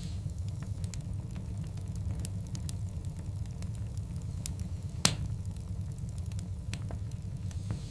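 Wood fire burning: scattered sharp crackles and small pops over a low steady rumble, with one louder pop about five seconds in.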